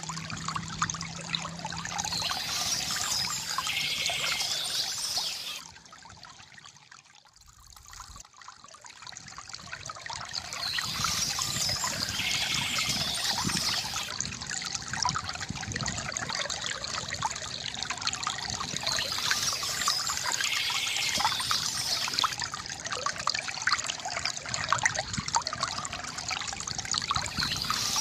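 Shallow stream trickling and burbling, with a bird singing short high phrases that recur about every eight seconds. The water sound sinks briefly a few seconds in, then returns.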